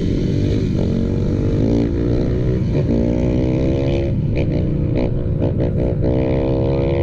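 Motorcycle engine revving hard. Its pitch climbs and drops back about once a second, turns choppy in the middle, then holds high near the end.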